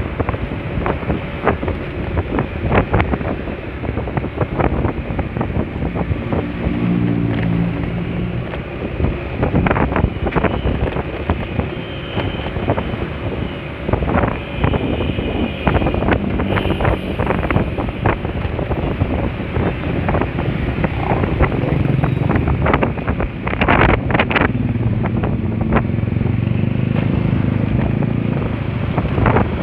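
Wind buffeting the microphone while riding a Honda Spacy scooter, with engine and traffic hum underneath. A lower engine hum swells briefly about a quarter of the way in and again for several seconds near the end.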